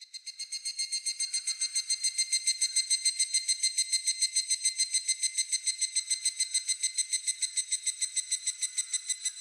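Higurashi (evening cicada) calling: a fast, ringing pulsed trill of about eight or nine notes a second that swells over the first two seconds, then holds steady.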